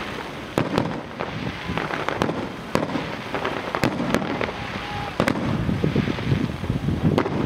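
Fireworks display: aerial shells bursting in a rapid, irregular series of sharp bangs over a continuous rumble.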